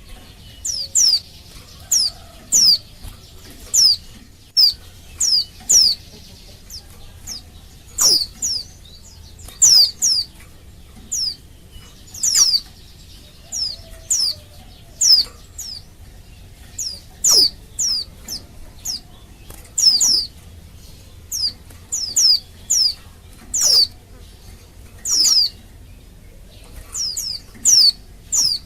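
Female white-eye (pleci) calling for males: short, high notes that slide downward, often in quick pairs, repeated every second or so.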